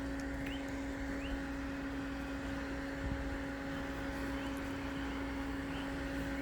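Steady machine hum under outdoor background noise, with a bird's short rising chirps repeated about once a second, in the first second and again near the end.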